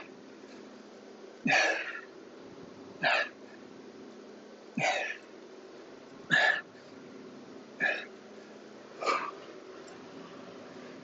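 A man's short, forceful exhalations, six in all, one about every one and a half seconds: effort breathing in time with the repetitions of a strength exercise.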